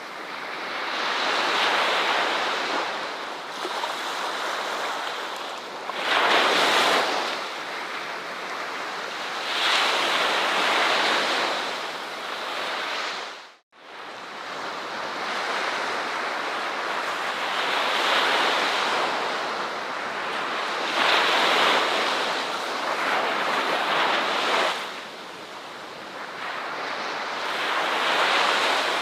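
Ocean waves breaking and washing up a shore, the surf swelling and ebbing every few seconds. The sound drops briefly to silence about halfway through, then resumes.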